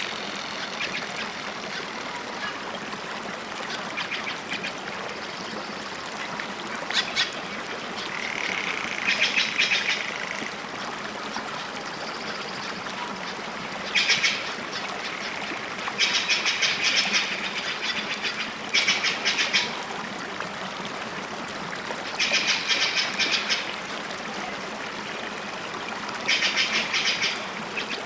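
Birds calling in bursts of rapid, harsh repeated notes, each about a second long and coming every few seconds, over a steady rush of running water.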